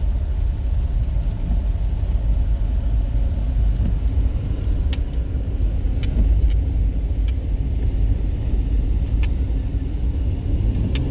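Car driving on a snowy road, heard from inside the cabin: a steady low rumble of engine and tyres, with a few light ticks and rattles.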